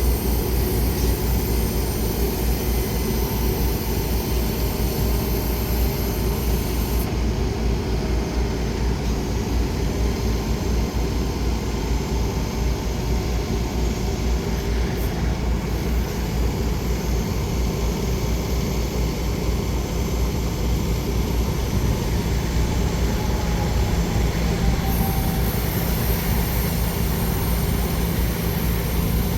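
An engine running steadily at idle, a constant low drone with a rapid even pulse.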